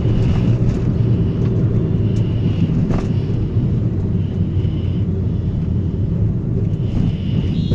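Toyota Noah minivan on the move: a steady low rumble of engine and road noise, with a single faint click about three seconds in.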